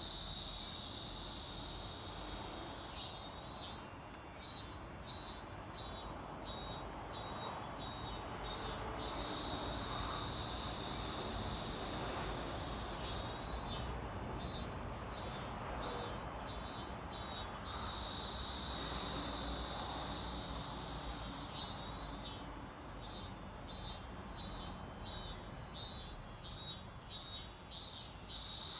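Robust cicada (minmin-zemi) singing: three song phrases, each about six seconds of rhythmic 'meen-meen' pulses at roughly two a second, over a steady high insect drone that runs throughout.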